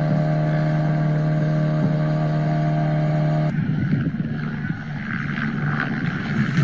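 An engine holds a steady, unchanging pitch. About halfway through, the sound cuts abruptly to a rougher, noisier rumble.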